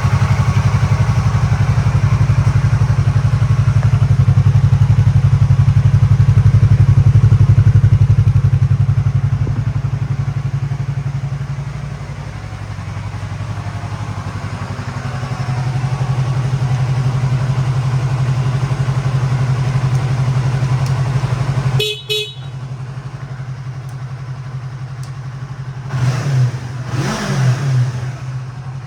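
Yamaha YZF-R3's parallel-twin engine idling steadily. About two-thirds through there is a short sharp sound, and near the end a few quick throttle blips rise and fall in pitch.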